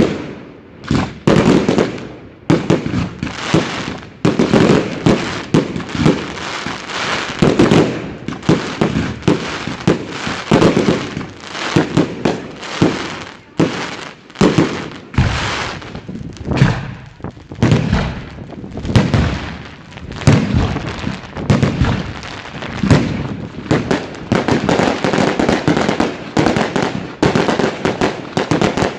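Display fireworks of categories II to IV going off in a continuous barrage: sharp bangs following each other every fraction of a second, many with a ringing, rolling tail.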